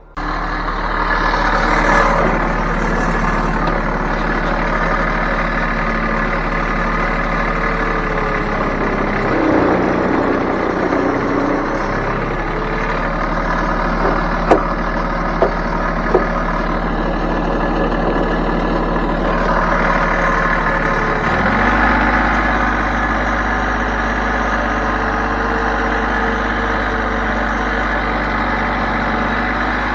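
Heavy machine's engine running steadily, its note wavering about ten seconds in and shifting to a new steady speed a little past twenty seconds. Three sharp clicks come in quick succession near the middle.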